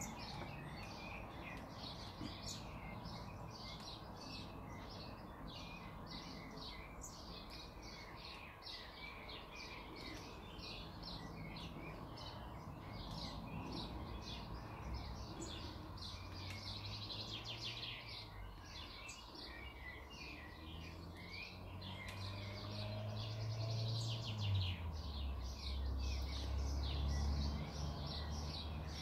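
Birds chirping steadily in the background, a dense run of short, high calls. A low hum rises under them in the second half.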